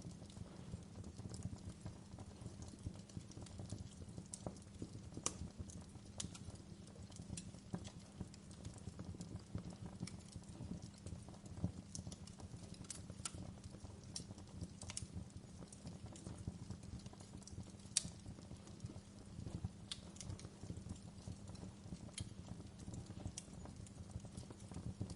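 Campfire burning: a steady low rumble of flame with irregular sharp crackles and pops of the burning wood, one louder pop about two-thirds of the way through.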